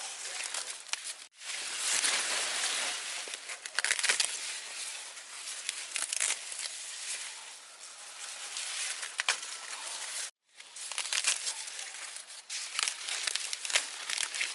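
Rustling and crackling of dry material being handled, with many sharp clicks and snaps, broken off abruptly twice.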